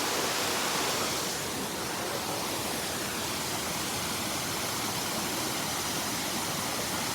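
Waterfall running: a steady, even hiss of falling water.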